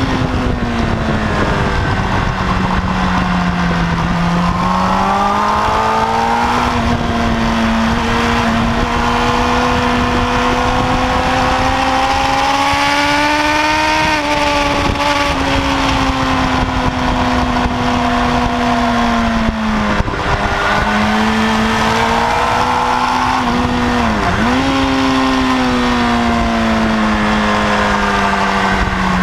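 Kawasaki ZX-10R inline-four engine pulling hard under a rider at track speed, its note rising and falling slowly, with two brief sharp dips in pitch about twenty and twenty-four seconds in. Steady wind rush over the fairing runs underneath.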